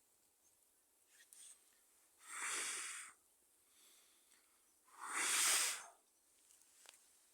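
A person blowing twice on a newly lit fire, two long breathy blows of about a second each, a couple of seconds apart.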